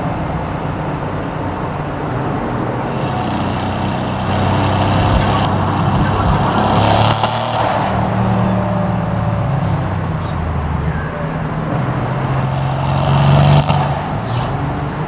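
V8 cars driving in convoy through a road tunnel, with a steady engine drone. The exhaust note swells twice, about seven seconds in and again near the end, as revs or a car passing.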